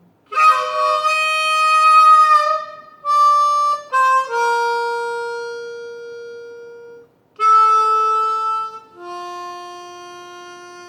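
Harmonica playing the closing phrase of a blues tune: about five long held notes, each fading out after it starts, the last one dying away slowly.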